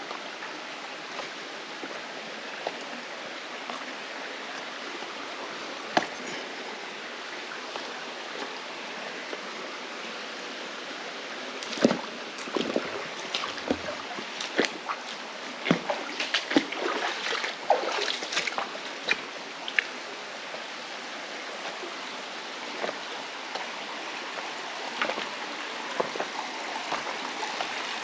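Mountain stream rushing steadily over rocks. A cluster of sharp clicks and knocks comes in the middle stretch.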